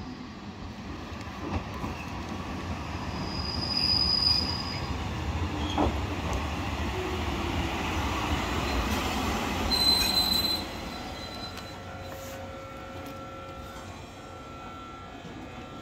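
Wakayama Electric Railway's red 'Umeboshi Densha' electric train (a 2270-series unit) pulling into a station. The running noise grows louder as it approaches, with short high-pitched squeals about four seconds and ten seconds in as it brakes. It then stops abruptly, leaving a quieter steady hum as the train stands.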